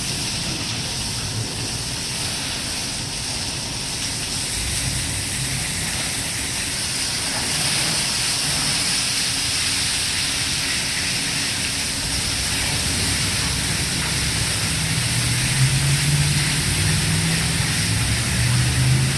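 WashWorld Razor touchless in-bay car wash spraying a vehicle: a steady hiss of water jets. A low hum comes in about fifteen seconds in.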